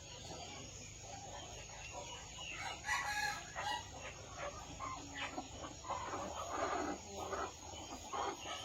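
Chickens clucking, with a rooster crowing; the calls get louder about three seconds in.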